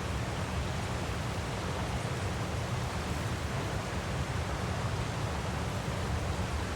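Waterfall rushing steadily: an even hiss over a strong low rumble, unchanging throughout.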